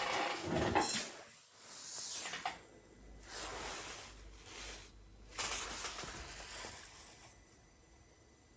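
Faint, irregular hissing bursts from inside a powered-up Delphi DCM6.2A engine control unit, which the mechanic thinks come from a burst capacitor on its board.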